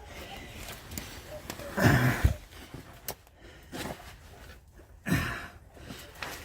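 A person breathing hard: two loud, rough breaths about three seconds apart, with small clicks and rustles between.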